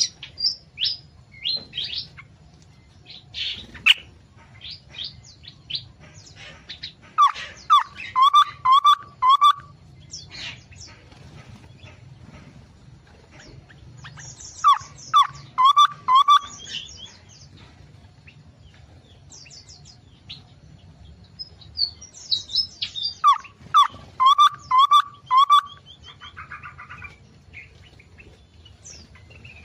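Small songbirds in an aviary chirping and calling. Three times, a bird gives a quick run of about five repeated whistled notes with higher twitters above, spread through the stretch. A faint low hum runs underneath.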